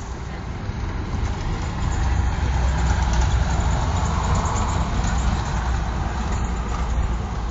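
A motor vehicle passing by: a deep engine-and-road rumble that swells to its loudest about three to four seconds in, then slowly fades.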